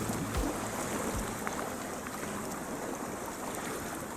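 Steady lakeside background: an even hiss of water and wind, with a few faint ticks.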